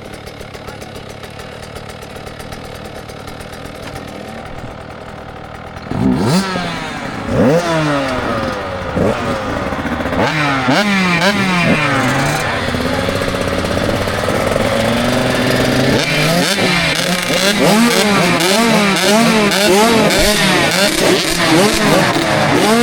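KTM 65 SX two-stroke motocross bike idling. About six seconds in it revs up and pulls away, the engine note rising and dropping again and again as it shifts up through the gears.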